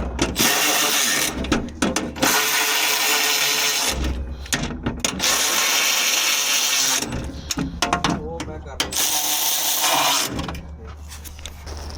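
A power tool running in several bursts of one to two seconds, with short pauses between them, during work on a Scania truck's DPF.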